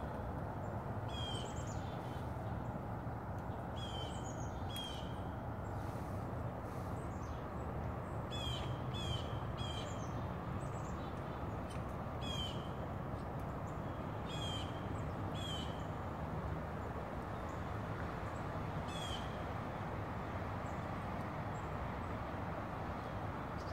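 A bird giving short calls, about a dozen at uneven intervals, over a steady low background rush.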